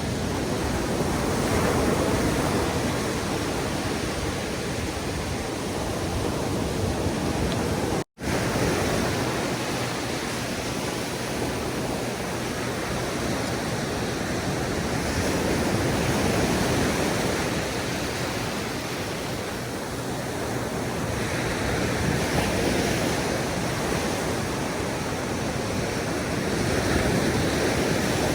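Ocean surf on a beach: waves breaking and washing up the sand in a steady rush that swells and eases every several seconds. The sound cuts out for an instant about eight seconds in.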